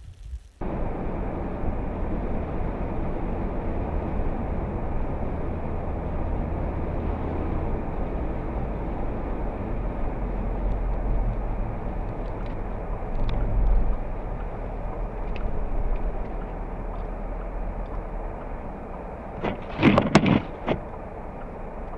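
Steady road and engine noise of a car driving, starting abruptly about half a second in, with a short louder burst near the end.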